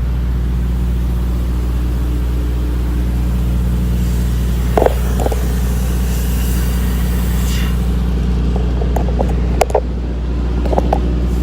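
Diesel semi-truck engine idling steadily, a low even rumble, with a few brief knocks about five seconds in and again near the end.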